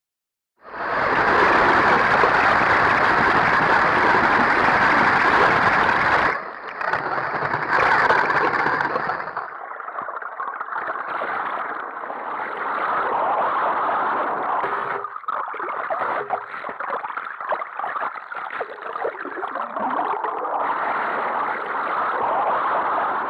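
River water rushing and gurgling, heard close up as a dense wash of sound. It changes abruptly about six, nine and fifteen seconds in, growing quieter and more broken after the first change.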